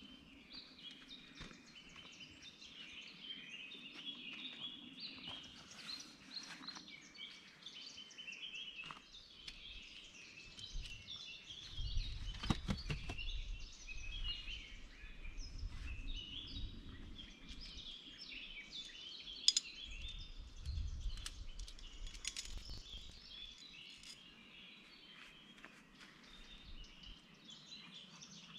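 Several songbirds singing, a steady stream of high chirps and short phrases. A couple of dull low rumbles with a click come near the middle.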